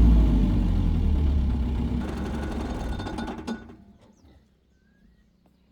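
Heavy diesel engine of an excavator or dump truck running with a deep rumble, easing down and then stopping abruptly about three and a half seconds in.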